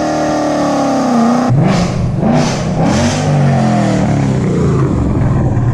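Ford Raptor's 3.5 L twin-turbo EcoBoost V6 through a Magnaflow MF Series cat-back exhaust, revving. The pitch first winds down, then the engine is blipped three times in quick succession and settles into a steady higher-revving drone.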